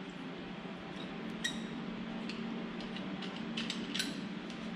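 Faint, light metal clicks and clinks, a handful scattered over a few seconds, as the tip of a small acetylene torch is twisted off and changed. A low steady hum runs underneath.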